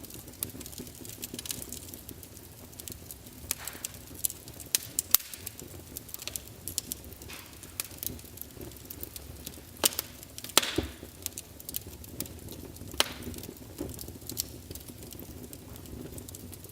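Log fire crackling: irregular sharp pops and snaps of burning wood over a soft steady hiss, with a few louder pops.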